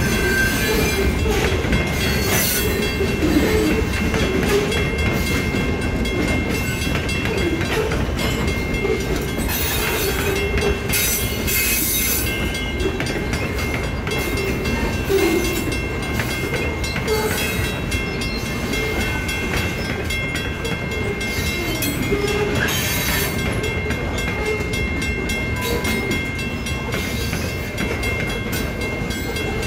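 Freight train of covered grain hopper cars rolling past slowly: a steady rumble of steel wheels on rail, with irregular clacks as the wheels cross rail joints.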